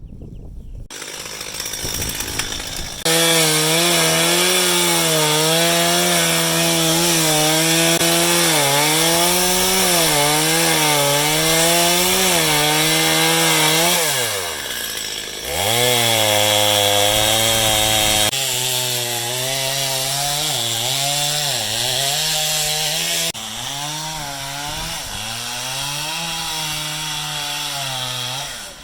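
Two-stroke chainsaw running at high revs, its pitch repeatedly sagging and recovering as the chain bogs in the wood. Partway through, the revs drop away and then climb back up.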